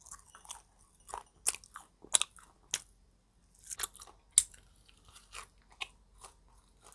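A person chewing a mouthful of grilled pork close to a clip-on microphone: irregular crunches and wet mouth clicks, a few sharper ones standing out.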